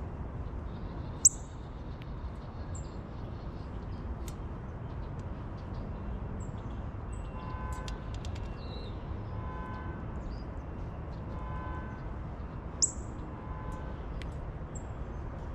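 Small birds giving short, sharp high chirps at a feeder, two of them much louder, about a second in and near the end. A series of repeated pitched calls sounds about every two seconds through the middle, over a steady low outdoor rumble.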